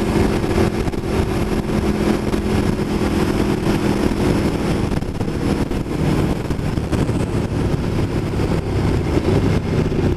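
Aprilia Tuono V4 1100 Factory's V4 engine running at steady revs under way. About six seconds in, the engine note changes to a lower pitch.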